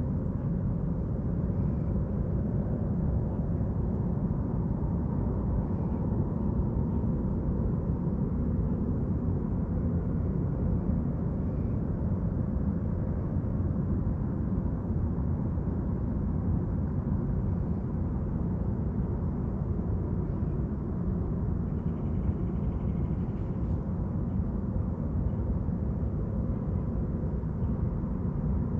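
Steady low rumble of a boat motor running on the water, with a faint even hum over it. A faint high chirping comes briefly about two-thirds of the way through.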